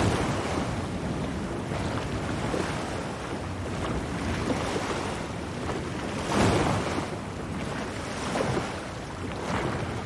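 Wind and rough sea waves around a small boat out on the ocean: a steady rush of wind and water, with louder surges of splashing now and then, the biggest about six and a half seconds in.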